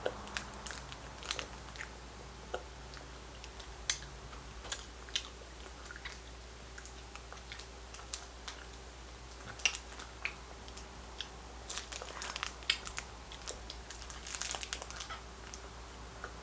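Faint chewing and biting on a sour, sugar-coated candy, with scattered small crunches and clicks and light crinkles of its plastic wrapper.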